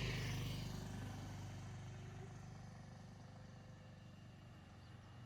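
Faint motor vehicle engine running with a steady low hum, louder at the start and slowly fading away, as if driving off.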